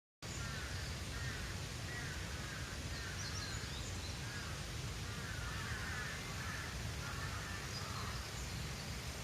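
Birds chirping in many short, repeated calls over a steady low outdoor rumble.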